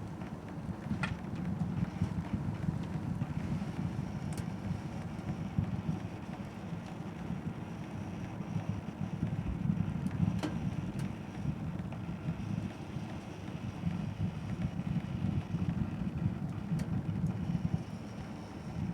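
Wood fire burning: a steady low rumble of flames with a handful of sharp crackles and pops from the firewood.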